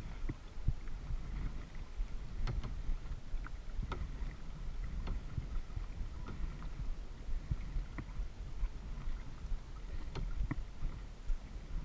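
Kayak being paddled: water splashing off the paddle blades with occasional light knocks, over a steady low rumble.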